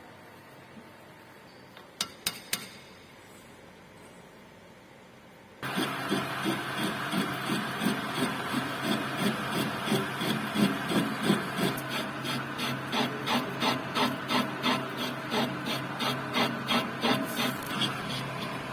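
Three quick clicks, then about five and a half seconds in a manual metal lathe starts and runs with a steady hum. Over the hum comes a rhythmic scraping about three times a second, typical of a threading tool cutting an internal left-hand thread.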